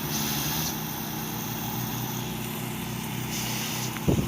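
Small engine running steadily, driving the water pump of a sprinkler irrigation kit, under the hiss of a rain-gun sprinkler spraying water. The hiss brightens twice as the spray passes.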